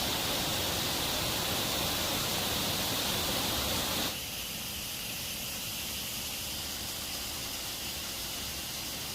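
Steady rushing of a waterfall; about four seconds in it becomes a little quieter and thinner.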